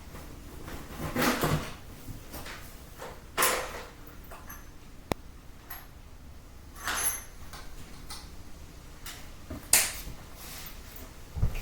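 Rummaging through plastic cases of screwdriver bits: a series of separate knocks and clatters a second or two apart, with one sharp click about five seconds in.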